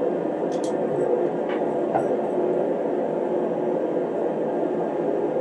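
Steady blowing rumble of a space heater running, with a few light clicks near the start.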